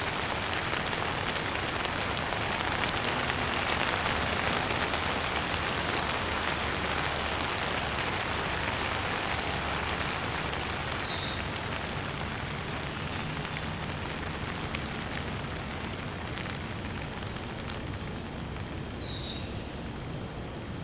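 Steady rain falling on surfaces, a dense even patter that slowly grows quieter in the second half. Two brief high bird chirps come through, one about halfway and one near the end.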